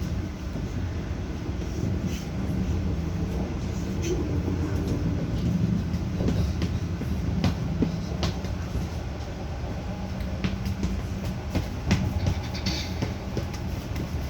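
Passenger train running along the track: a steady low rumble of wheels on rails, with scattered sharp clicks and knocks.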